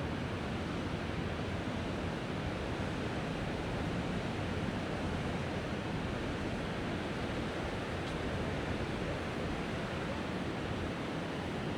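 Mediterranean surf washing onto the beach: a steady, even hiss of waves with no distinct breaks standing out.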